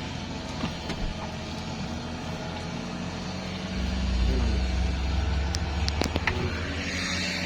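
Mitsubishi Triton pickup's engine idling steadily on a test run, its low hum getting louder about halfway through, with a few light clicks near the end.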